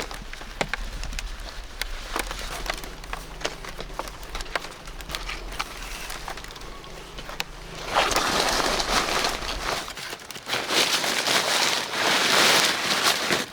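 Scattered light clicks and crackles over a low hum, then two spells of loud rustling from a little over halfway in.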